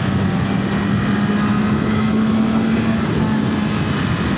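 Wind rushing over a mask-clipped mic while riding, with the BMW S1000 RR inline-four's steady engine note underneath; the engine note rises slightly, then eases back about three seconds in.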